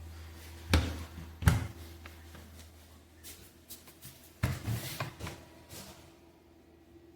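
Two sharp knocks about a second in, then a cluster of softer knocks and rattles around the middle, like a lid or door being handled and shut, over a low steady hum that weakens after the second knock.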